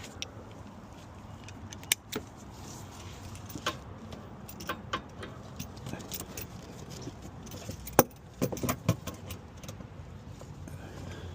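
Metal sockets and a socket wrench clinking and knocking as sockets are tried on a bolt to find the right size. Scattered sharp clicks, the loudest about eight seconds in, over a low steady hum.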